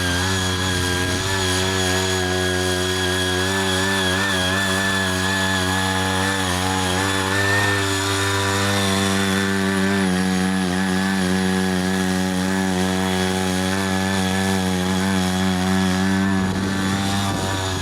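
Ching Yee CY80 hand tractor's engine running steadily at a constant speed while tilling with its rotary tines, its tone wavering slightly as it works.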